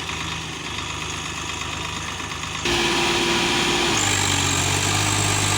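Sonalika tractor's diesel engine running steadily. It turns sharply louder about halfway through, with a steady whine over the engine noise.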